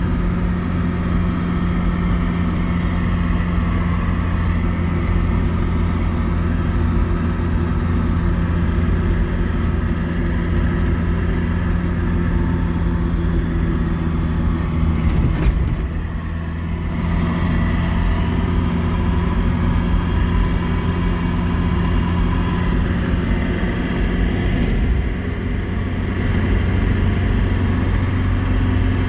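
Motor vehicle engine running steadily, with a short click about fifteen seconds in and a brief drop in level after it.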